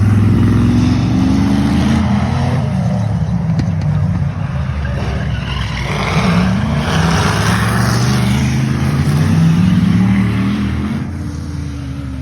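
Racing stock car engines running loud, their pitch rising and falling as the cars accelerate and pass.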